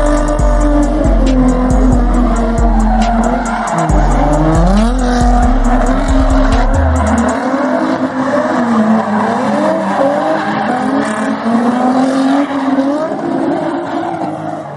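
A car engine revving up and down over and over with tyres squealing, as in a burnout. Music with a heavy bass line plays underneath and stops about seven seconds in.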